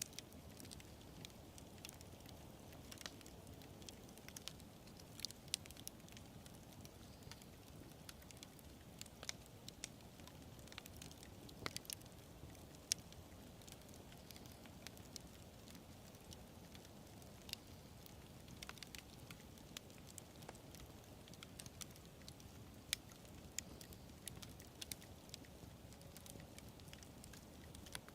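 Quiet wood fire crackling: irregular sharp snaps and pops over a soft, steady low rush of the burning fire.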